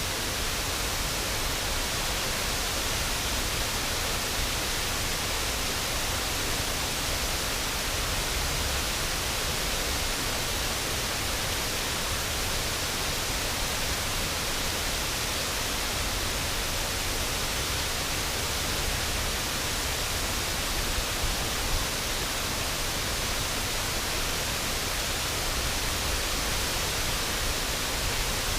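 River waterfall: water pouring over the falls in a steady, unbroken rush, with a low rumble underneath.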